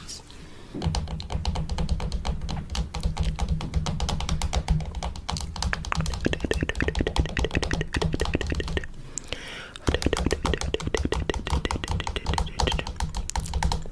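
Fingernails tapping rapidly on a camera or microphone, many sharp taps a second over a dull low rumble. The tapping breaks off briefly about nine seconds in, then resumes.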